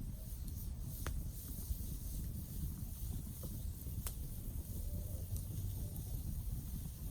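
Campfire burning: a low steady rumble of flames with a few sharp wood crackles, the clearest about a second in and about four seconds in.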